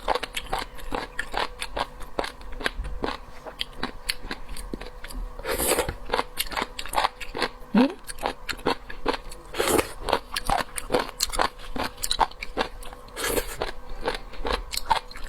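Close-miked chewing of sliced sea cucumber: a steady run of crisp crunching and wet clicks, with a few louder, longer bites.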